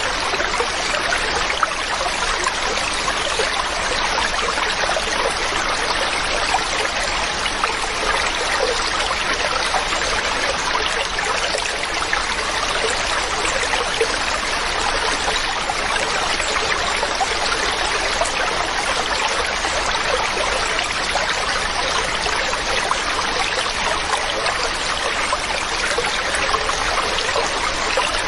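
Mountain stream running over rocks: a steady rush and babble of water.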